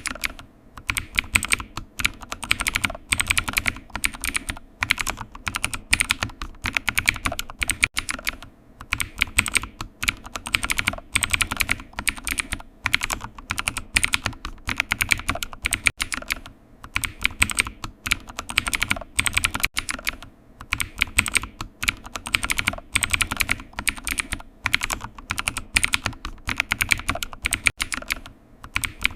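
Typing on a computer keyboard: continuous runs of quick key clicks broken by short pauses.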